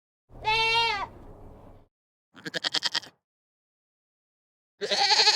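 Three separate bleats from goats or sheep, with dead silence between them: a long, steady, high call about half a second in, a short quavering one in the middle, and a third that starts near the end.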